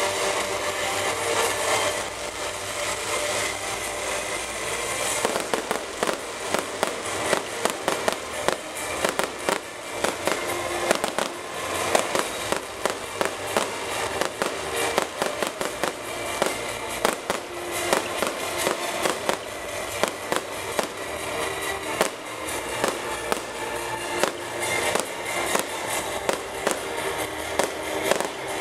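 Fireworks display: a dense run of sharp pops, cracks and bangs from bursting shells and crackling stars, many a second, thickest from about five seconds in.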